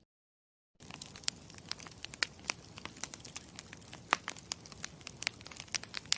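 Campfire crackling: irregular sharp pops and snaps of burning wood over a low steady rumble of the fire, starting after a brief silence about a second in.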